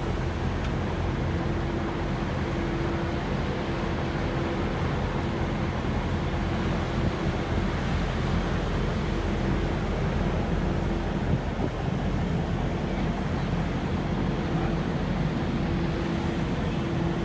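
Vacuum cleaner running steadily, a continuous rushing noise with a low motor hum and a steady tone that drops out and returns a few times.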